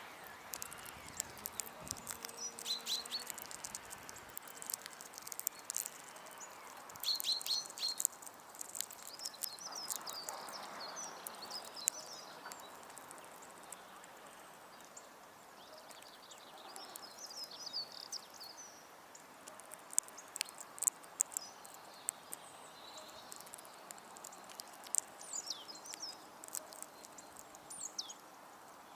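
Small garden birds chirping and calling in short, scattered bursts around a feeder, mixed with many sharp taps and clicks.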